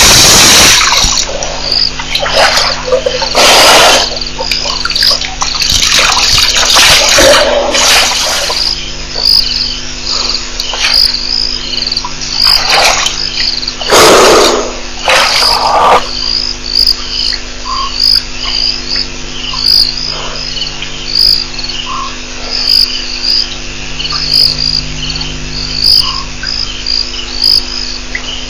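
A night chorus of calling insects and frogs, with a high chirp repeating about twice a second over a steady low hum. A loud hiss cuts off about a second in, and several loud noisy rushes come and go in the first half.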